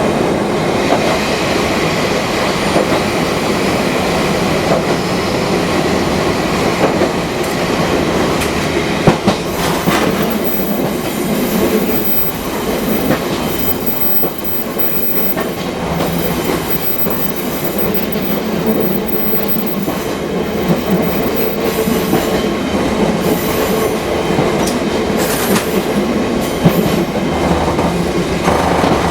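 Fukui Railway 200-series electric railcar running, heard from inside the car: steady rumble of wheels on rail under a motor hum, with clicks over rail joints and some wheel squeal.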